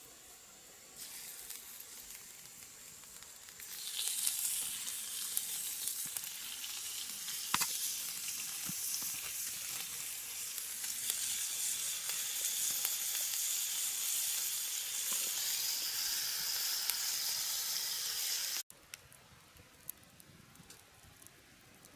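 Food sizzling as it fries in a hot pan, a steady hiss with small crackles. It grows louder about four seconds in and cuts off abruptly near the end.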